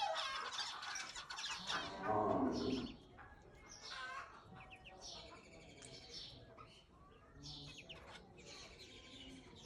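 A colony of Java sparrows and zebra finches chirping, with many short, high calls overlapping throughout. A louder, lower call comes about two seconds in.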